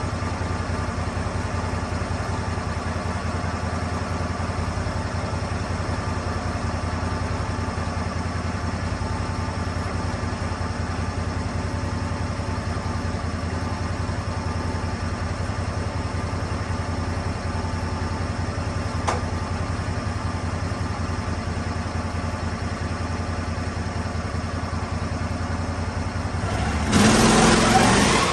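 Engine of a Lucas Mill 10-30 swing blade sawmill running steadily. A single click comes about 19 seconds in, and near the end the sound suddenly gets much louder for about a second and a half.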